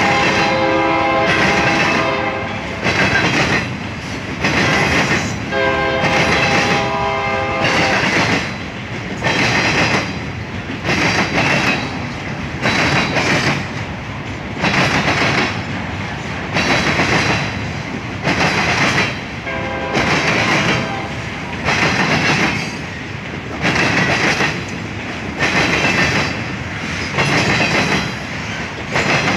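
Loaded lumber bulkhead flatcars of a freight train rolling past, their wheels clattering over the rail joints in an uneven repeating rhythm as each truck goes by. Twice in the first eight seconds a held multi-note tone, the train's horn, sounds over the clatter.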